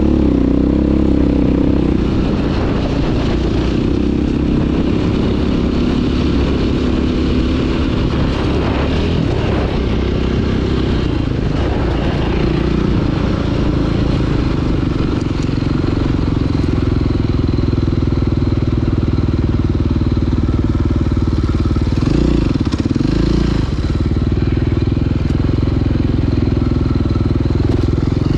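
Dirt bike engine running while riding, the revs held fairly steady, with a brief drop and rise in revs about 22 seconds in.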